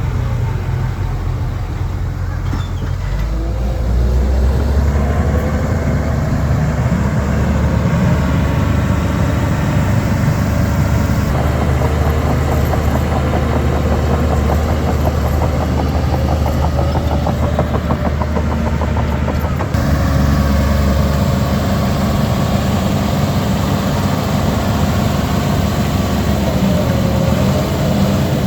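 Heavy diesel engine of earthmoving machinery running loud under load, its pitch rising a few seconds in and shifting again later, with an abrupt change near the two-thirds mark.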